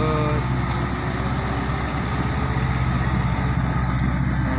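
Diesel dump truck engine running steadily at low revs.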